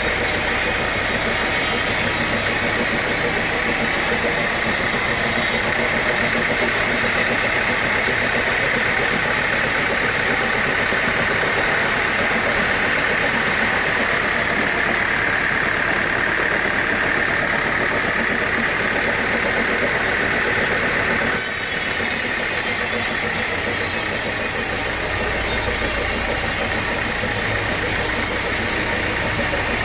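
Sawmill machinery running steadily, an engine-driven saw with a constant whine. The sound changes abruptly about two-thirds of the way through.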